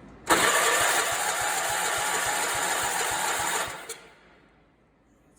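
Allis-Chalmers 416 garden tractor's engine cranked on its starter with the choke on for about three and a half seconds, about five even compression pulses a second, without catching. It then stops. The owner puts the failure to start down to a carburetor issue.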